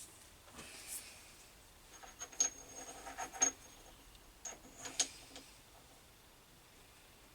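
Light metallic clinks and taps from metal tools being handled and set at a lathe, in two short clusters, some leaving a brief high ring.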